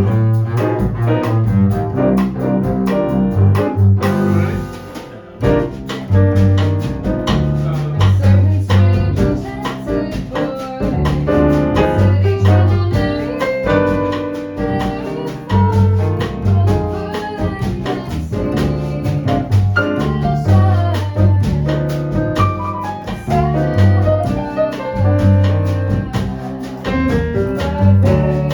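Jazz combo of acoustic piano, upright double bass and drums playing an instrumental passage, with prominent walking bass notes under piano lines and light drum strokes. The music thins briefly about four seconds in.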